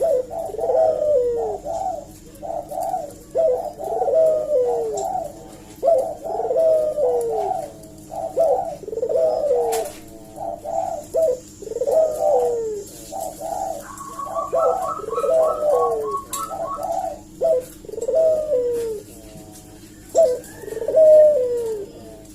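Puter dove (Barbary dove) cooing over and over in quick repeated phrases, many ending in a falling glide, the steady calling that keepers call 'gacor'. About halfway through, a short run of higher chirping notes joins in.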